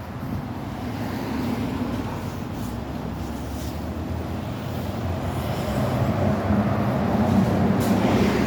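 Street traffic: cars passing close by with a steady rumble, growing somewhat louder from about five seconds in.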